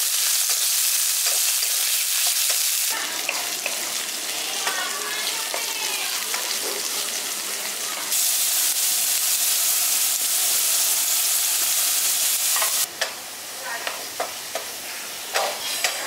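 Diced potatoes sizzling in hot oil in a kadai, stirred with a wooden spatula that scrapes and knocks against the pan. The sizzle drops back about three seconds in, comes up loud again about eight seconds in, and eases near the end, where scattered spatula knocks stand out.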